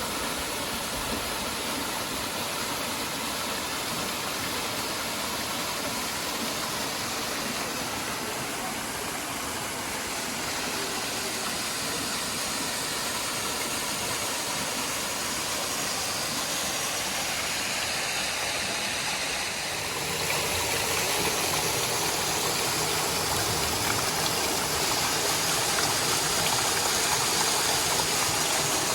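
A small waterfall cascade with water rushing steadily over rock; it grows a little louder about twenty seconds in.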